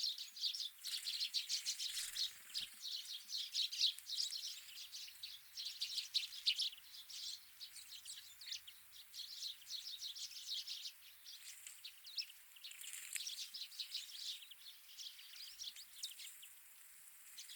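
Many birds chirping and twittering, short high calls overlapping thickly at first and thinning out over the last several seconds.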